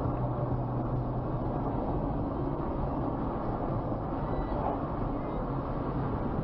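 Steady vehicle engine hum and road rumble, even throughout with no impact or sudden event.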